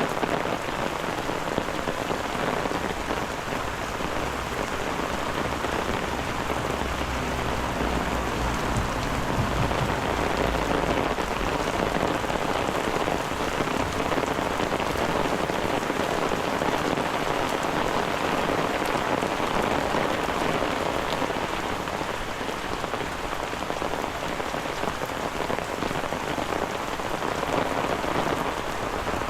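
Steady rain falling, a dense even patter. A low rumble comes in about a quarter of the way through and fades a few seconds later.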